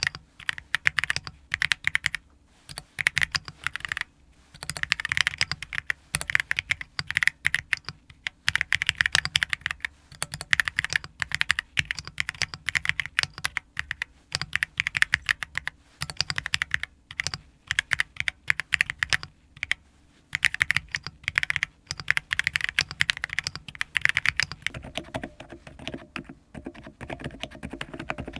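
Custom mechanical keyboard being typed on in fast runs of keystrokes with short pauses between them. About 25 seconds in, the keystrokes turn a little quieter and deeper.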